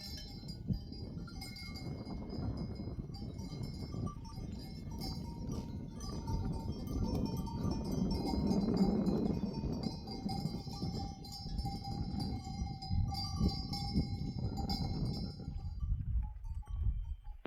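Bells hung on a flock of sheep and goats ringing and clanking as the herd moves, several bells at different pitches overlapping. Beneath them runs a low rushing noise that swells near the middle.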